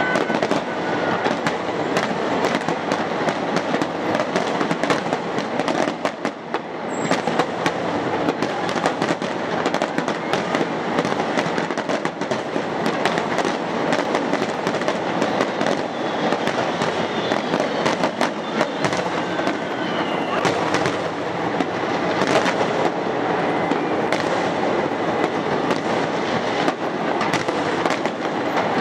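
Fireworks display: a continuous barrage of aerial shells bursting and crackling, the reports overlapping with no gap, with a brief dip about six seconds in.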